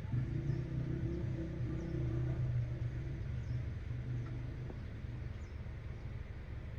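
Car engine and road rumble, a steady low hum that eases off after about two and a half seconds.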